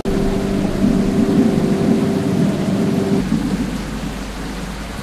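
Heavy truck's diesel engine running under load: a loud, low steady drone with rumbling underneath. The drone drops away about three seconds in and the engine settles lower.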